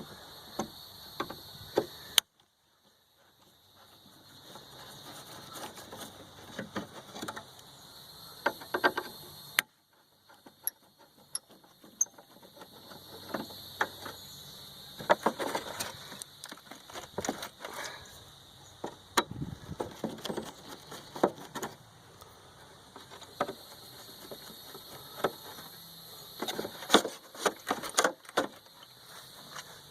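Scattered clicks, taps and clanks of hand tools and sheet-metal parts as a window air conditioner is taken apart, over a steady high-pitched hiss. The sound cuts off abruptly twice, about two and ten seconds in.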